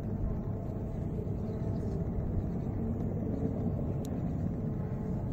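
Steady low rumble of a passenger train hauled by twin ALCO WDG3A diesel locomotives moving away at speed, its coaches running over the track.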